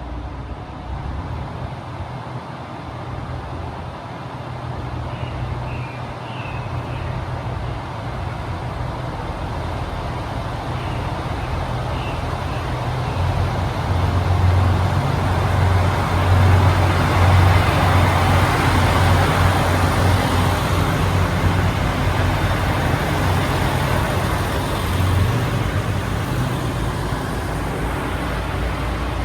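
A train running close by: a steady low drone with wheel and rail noise that swells to its loudest past the middle, then eases a little.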